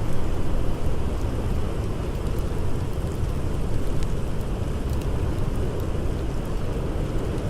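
Blizzard wind blowing steadily, a deep, dense rush of noise, with faint scattered crackles of a campfire.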